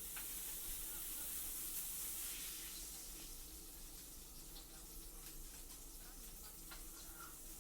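Food sizzling in a frying pan: a steady, faint hiss with a few light clicks scattered through it.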